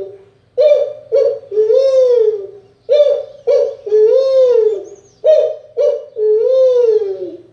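A man vocally imitating a bird call, three times over: each time two short hoots followed by a longer note that rises and then falls.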